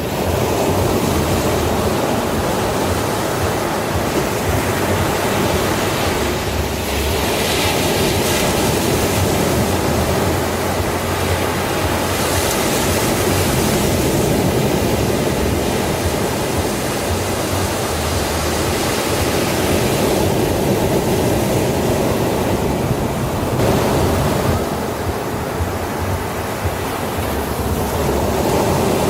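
Sea waves breaking on a beach: a continuous rush of surf whose hiss swells several times as waves break and wash in.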